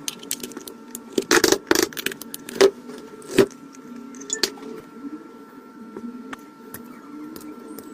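Sharp clicks and light rattling of small hard parts being handled, several in the first half and sparser later, over a faint steady background hum.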